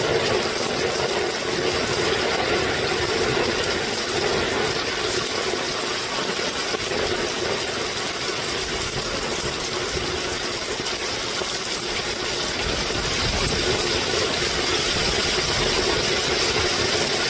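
Heavy rain pouring down in a steady, dense hiss, with no thunderclap.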